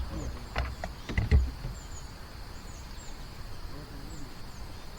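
Outdoor ambience of small birds chirping over and over, with a steady insect buzz, and a few sharp knocks with low thumps between about half a second and a second and a half in.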